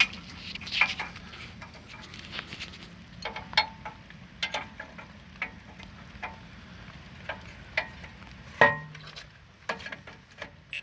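Irregular light metallic clinks and taps of tools and bolt parts being handled, with one louder knock about two-thirds of the way through.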